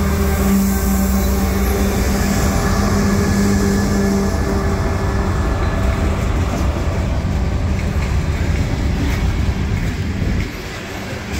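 Diesel freight locomotives passing close by, their engines running with a steady low drone over a heavy rumble. The drone fades about five seconds in as the locomotives move off, and the freight cars keep rumbling past on the rails, the level dropping near the end.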